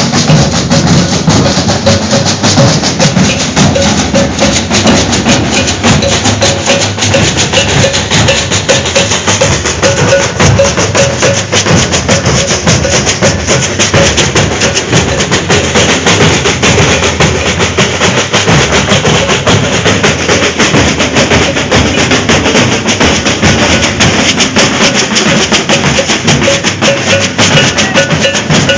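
Maracatu de baque virado percussion ensemble playing loudly: deep bass drums, snare drums and shakers in a steady, dense rhythm, with a repeating metallic note over the top.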